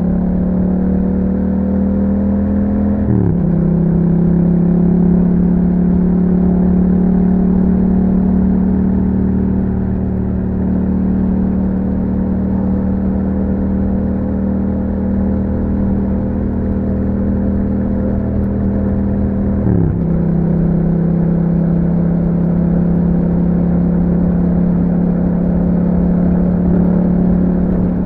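2021 Yamaha MT-07's parallel-twin engine through an Akrapovic exhaust, running under way at a steady pitch. The note drops abruptly twice, about three seconds in and near twenty seconds, as it shifts up a gear.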